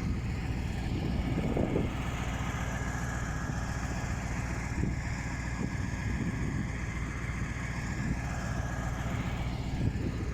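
A steady low hum, like an engine running, with a few faint short sounds over it.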